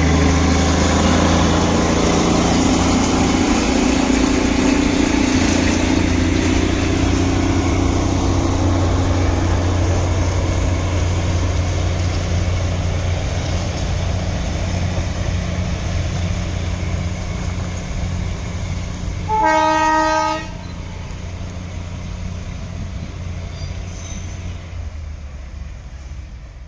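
Train running with a steady low rumble, then a single horn blast of about a second roughly twenty seconds in. The rumble then slowly fades away.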